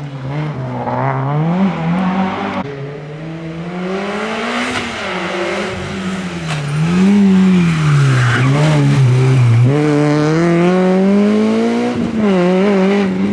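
Rally car engine revving hard, its pitch climbing and falling again and again as it shifts gear and lifts for corners, with sharp pitch drops at the shifts about two and a half seconds in, near ten seconds and near twelve seconds. It is loudest in the second half.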